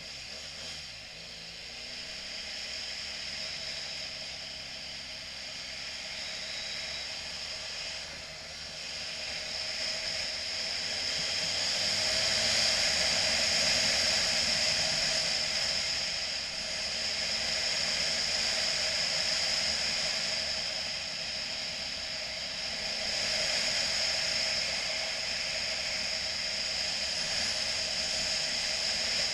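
Motorcycle on the move: a steady rush of wind and road noise with a faint engine note underneath that rises and falls, growing louder about halfway through.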